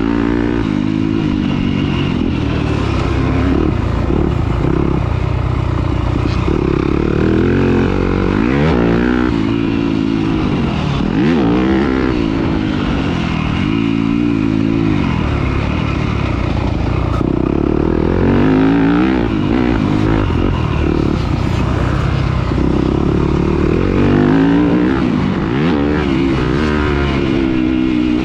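Off-road dirt bike engine racing, its pitch climbing and dropping over and over as the throttle is worked on and off through the course.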